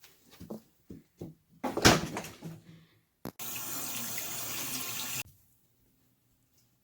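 A few light knocks, then a louder clattering burst. After that comes an even rush of running water for about two seconds, which cuts off suddenly.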